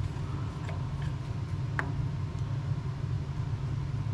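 A few small plastic clicks in the first two seconds as a monitor's adjustable suction-cup mount is set, over a steady low rumble.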